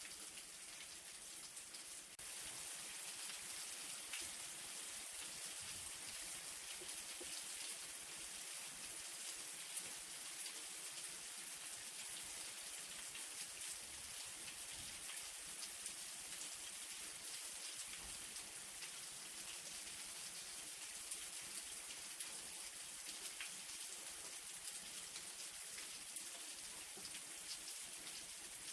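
Light rain falling steadily: a fine, even hiss with many small drops ticking through it, a little louder from about two seconds in.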